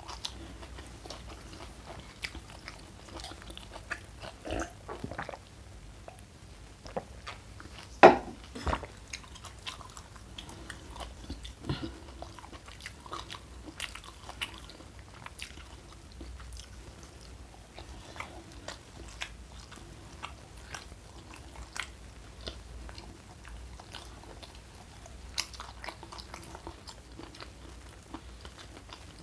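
Close-miked eating: chewing and biting with many small crisp crunches and clicks, and one loud sharp crack about eight seconds in.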